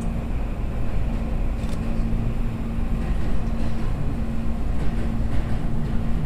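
Electric commuter train running on the Tobu Skytree Line, heard from inside the front car: a steady low rumble of wheels on rail with a constant motor hum.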